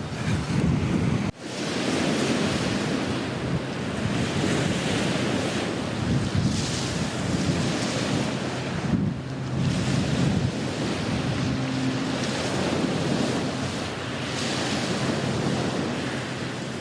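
Waves washing on the shore, with wind rumbling on the microphone; the sound drops out for an instant about a second in.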